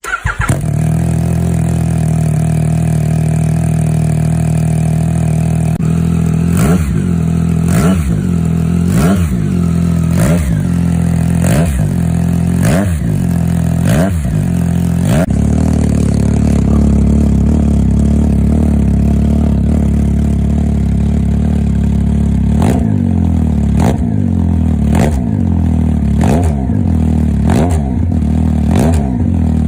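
Yamaha MT-09's inline three-cylinder engine idling through its exhaust, then blipped repeatedly, each rev rising and falling about once a second. It settles back to idle, then another run of blips follows near the end.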